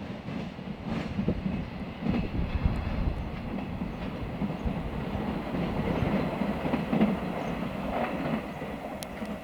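Freight train passing, its wagons rolling along the rails with a continuous rumble and clatter of wheels.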